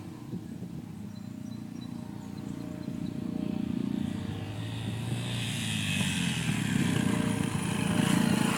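Dirt bike engine running as the bike is ridden, getting steadily louder over several seconds and loudest near the end.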